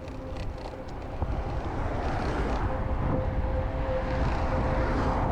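Wind rushing over the microphone and road noise while riding a bicycle, growing louder over the first two seconds as the bike picks up speed, with a thin steady hum running through it.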